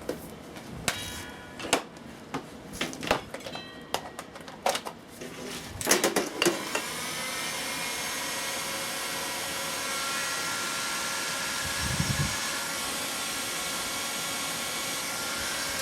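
Clicks and knocks of handling for the first six seconds or so. Then an electric heat gun switches on and runs steadily, a fan hiss with a faint whine, blowing warm air down the air inlet to help the old diesel tractor cold start.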